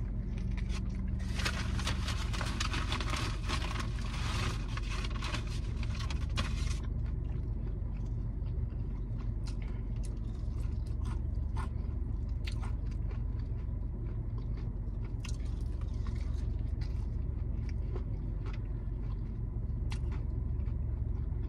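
Biting into a crispy breaded fried chicken wing and chewing it close to the microphone. A dense run of crunching over the first several seconds gives way to slower chewing with scattered crunches, over a steady low hum.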